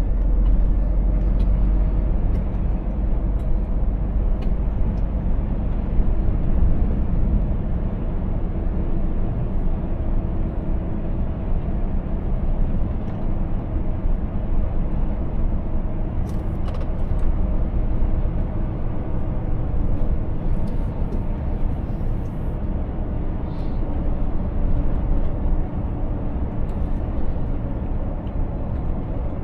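Scania 500S truck's diesel engine running steadily on the road, with tyre and road noise. The low rumble is heaviest for the first several seconds, then eases a little.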